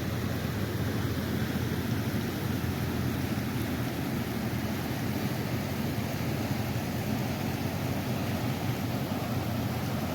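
Steady rush of water being let out of a dam and running down the river below, a deep, even rumble with no let-up.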